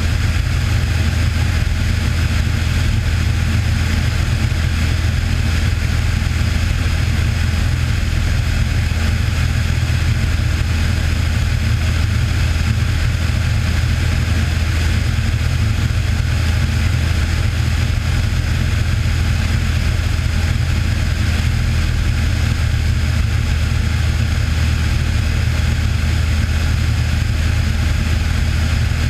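Cessna 182's piston engine and propeller running steadily in cruise, a constant low drone with no change in pitch or level.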